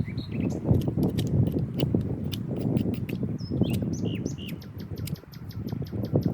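Wood fire crackling, with small birds chirping over it. Near the end a bird gives a quick trill of short repeated notes.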